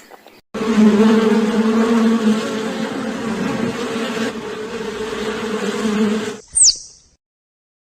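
A flying insect buzzing with a steady hum for about six seconds, like a bee's wings. Just after the buzz stops comes one short, high chirp falling in pitch.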